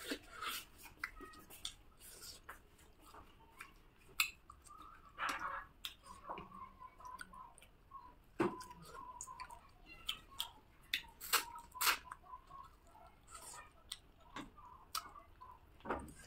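Close mouth sounds of a person eating chicken curry and rice by hand: irregular wet chewing clicks and smacks, a few louder ones in the middle.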